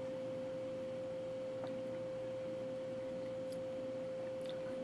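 A steady single-pitched tone, like a sine wave, holding one pitch throughout over faint room hiss, with a couple of faint ticks.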